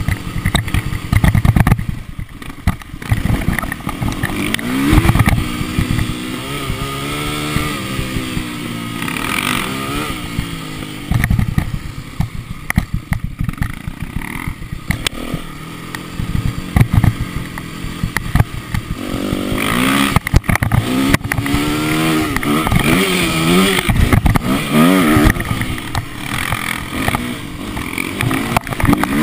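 Motocross motorcycle engines revving, the pitch rising and falling again and again as the bikes accelerate and shift, busier and more frequent in the second half.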